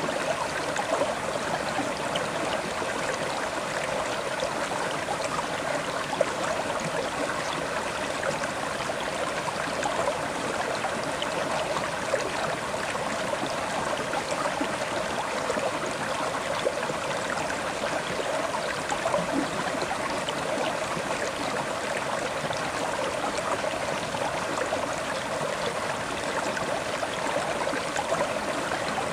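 River water flowing steadily over rocks, a continuous babble with fine splashes and trickles.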